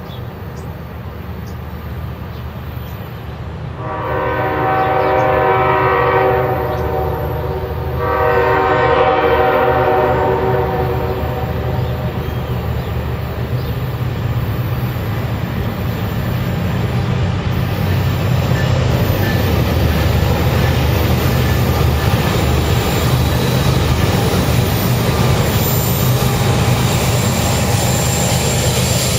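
CSX freight locomotive's air horn sounding two long blasts, a chord of several tones, over the low rumble of the diesel locomotives. After the horn, the rumble and wheel noise of the passing coal train build up and hold steady.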